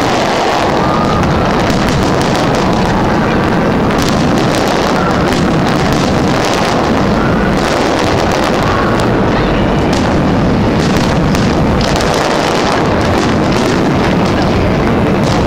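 A fireworks display with shells bursting in quick succession: many sharp cracks and bangs over a continuous loud rumble that never lets up.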